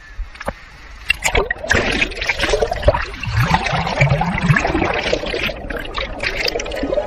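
Seawater surging and gurgling in a small rock pool, swelling about a second in, with crackling bubbles and sloshing.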